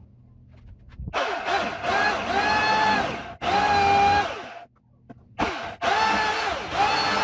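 Chainsaw run in three bursts, cutting into the rotten wood of a boat transom. Its pitch rises as it speeds up and falls as it slows, and it cuts off abruptly between bursts.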